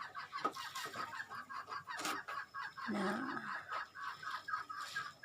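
Pigeon squabs peeping in a fast, even run of short high chirps, about six a second, the begging calls of young pigeons in the nest. A brief lower sound comes about three seconds in.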